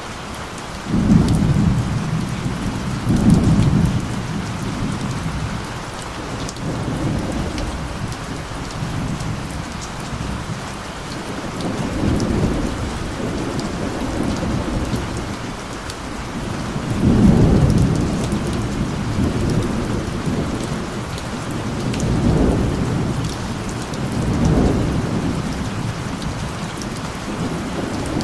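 Steady rain falling with low rolling thunder that swells and fades several times, the strongest rumbles about a second in, about three seconds in, and a little past the middle.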